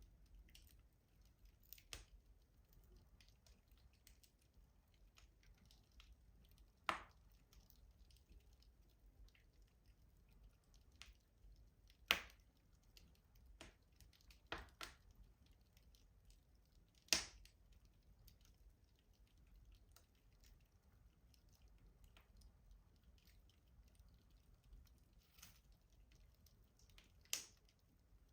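Wood fire crackling in a rustic wood-burning stove: scattered small ticks with a handful of louder sharp snaps several seconds apart.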